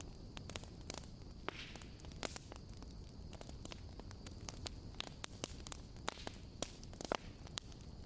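Campfire crackling: irregular sharp pops and snaps over a steady low rumble and hiss, with a few brief hissing puffs.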